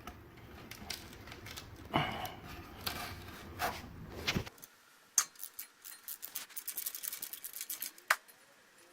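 Metal hand tools clinking and clicking against a small-block Chevy engine. A few separate knocks come in the first half. A quick run of clicks follows after a low hum cuts off, and a single sharp knock comes near the end.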